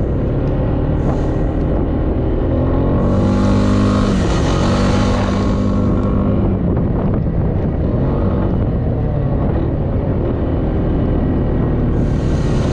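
Off-road vehicle engine running steadily while being ridden, revving up and easing off a few seconds in, with bursts of hiss over it.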